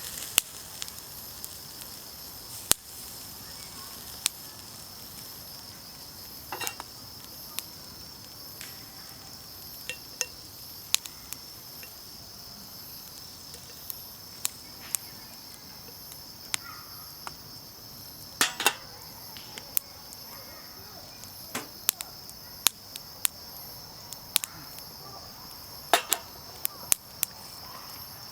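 Night insects such as crickets trilling steadily at a high pitch, with sharp, irregular pops from a crackling wood campfire.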